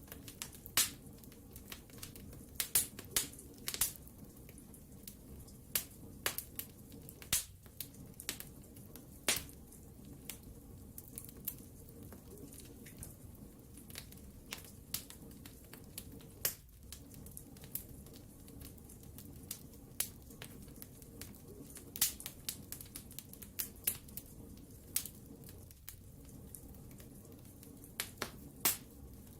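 Wood fire in a fireplace crackling: irregular sharp pops and snaps, a few every second or two, over a steady low rush of burning.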